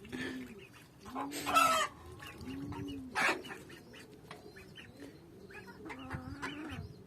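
Domestic fowl calling with short, low, arched clucking notes repeated about every second and a half, with a couple of brief louder noises in between.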